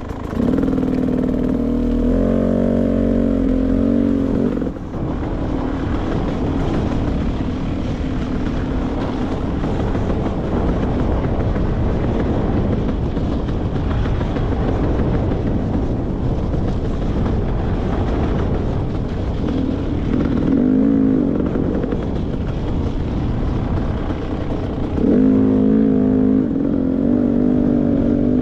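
Beta 300 RR two-stroke single-cylinder dirt bike engine running under throttle on the trail. The revs rise and fall at the start and again about 25 seconds in, with rougher, lower running in between.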